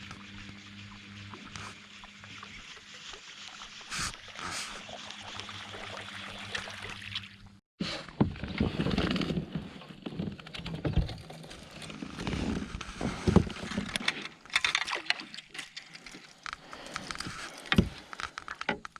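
Water and handling noise on a kayak, quiet at first with a faint steady hum, then after a break about eight seconds in, louder irregular rumbling and knocks with a few sharp clicks.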